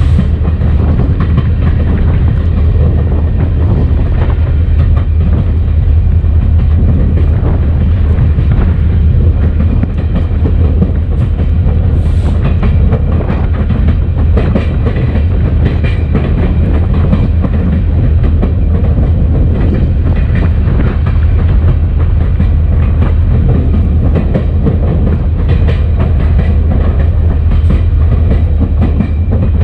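EMD SD40-2 diesel locomotive running down the track, heard from a camera on its short nose: a steady low engine drone under rolling noise, with the wheels clicking over the rail joints.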